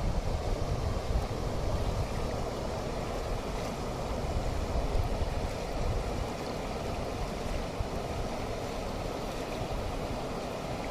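Waterfall rushing steadily, with wind buffeting the microphone through the first half.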